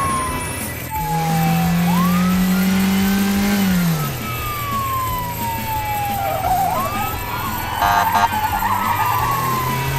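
Police car siren wailing, each cycle rising quickly and sliding slowly down, over a steady car engine hum that drops in pitch about four seconds in. A brief rattling burst near eight seconds.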